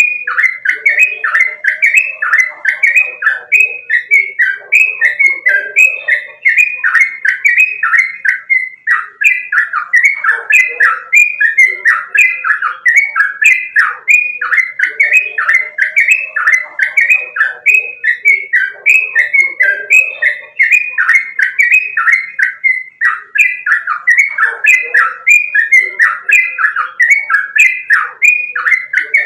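Yellow-vented bulbul (trucukan) singing loudly: a continuous, rapid run of repeated bubbling notes, several a second.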